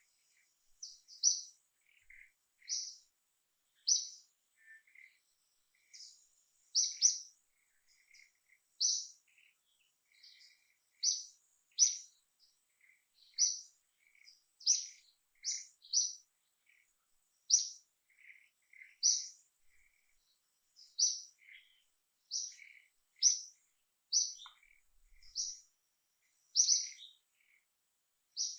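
A bird chirping over and over: short, sharp, high chirps about once a second, with fainter lower notes in between.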